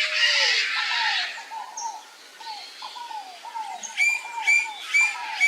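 Wild birds calling: a harsh, raspy call in the first second and a half over a steady series of short falling notes repeating about three times a second, then four clear whistled notes about half a second apart near the end.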